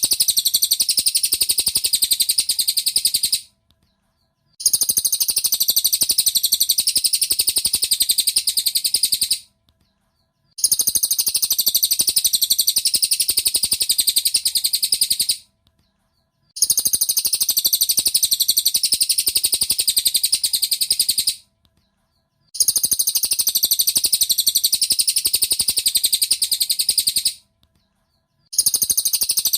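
Cililin bird song recording used as a training 'master' track: bursts of very rapid, high chirping about five seconds long. Each burst is followed by about a second of silence, repeating regularly every six seconds.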